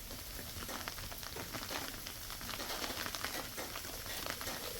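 Food sizzling in a hot pan: a steady, dense crackle.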